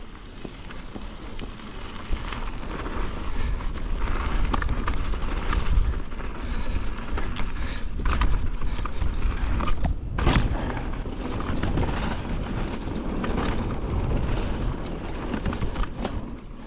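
Mountain bike riding down a rough dirt trail: a heavy low wind rumble on the microphone, with the bike rattling and knocking over bumps.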